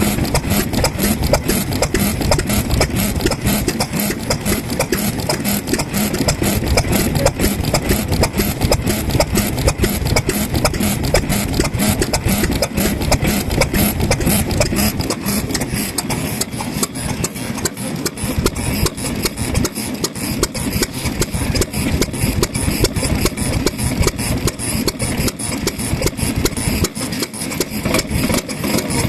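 Vintage Japanese kerosene stationary engine (sekiyu hatsudōki) running steadily at idle, a rapid, even train of exhaust beats.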